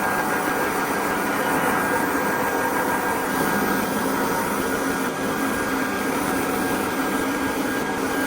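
Electric sander running steadily with 400-grit sandpaper on the timber top, a constant motor whine.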